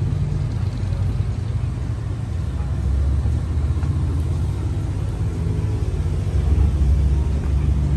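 Motor vehicle engine running with a steady low rumble, a little louder near the end.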